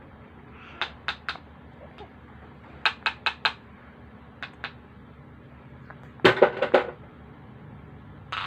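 Hard objects clicking and knocking in quick groups of two to four sharp taps, with a louder clatter a little past the middle.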